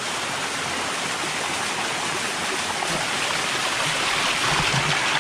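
Waterfall rushing close by: a steady, even rush of falling water that grows slightly louder toward the end.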